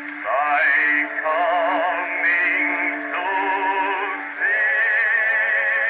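Edison Amberola 30 cylinder phonograph playing a Blue Amberol record: a singer's voice with vibrato over a steady accompaniment note, with the thin, band-limited tone of an acoustic phonograph. About four and a half seconds in, the accompaniment note stops and the voice moves onto a long held note.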